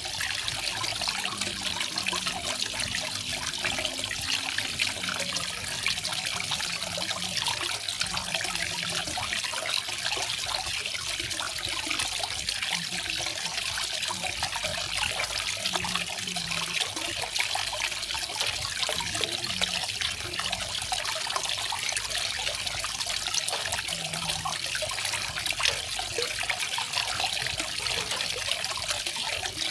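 Small garden waterfall: water falling and splashing in a steady, unbroken rush.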